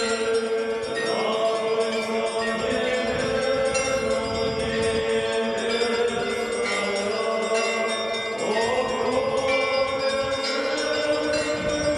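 Voices of the procession singing an Orthodox church chant, with held notes that slide up to a new pitch about a second in and again later, while bells chime over the singing.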